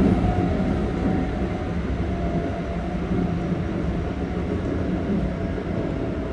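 Interior running noise of a Keikyu 1500 series electric train: a steady rumble of wheels on rail with a steady low hum from under the floor while the train cruises.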